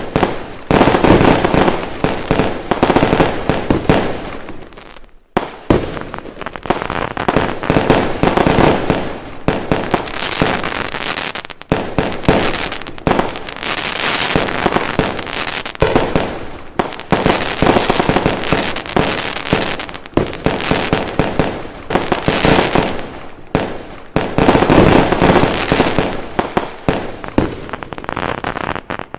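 Fireworks going off in dense, continuous barrages of bangs and crackling, with a brief lull about five seconds in.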